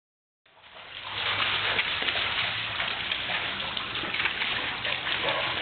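Steady rain falling on a waterlogged yard, an even hiss of patter that fades in at the start.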